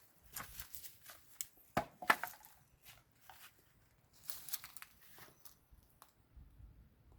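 Brick-laying work: a trowel scraping and tapping on mortar and brick in several short, irregular clusters of scrapes and knocks.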